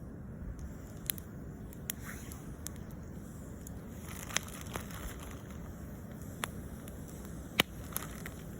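Campfire crackling, with sharp wood pops at irregular intervals, a loud one near the end, over a steady low rumble.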